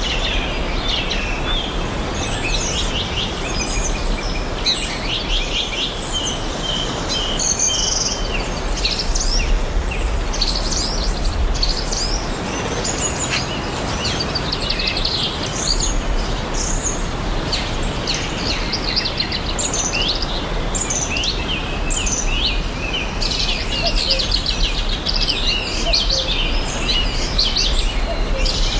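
Many songbirds chirping and trilling in short high calls throughout, over a steady background rush of noise.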